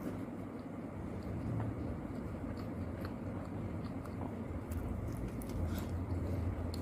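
A person chewing steamed momos, with soft mouth clicks and smacks scattered through, over a steady low hum.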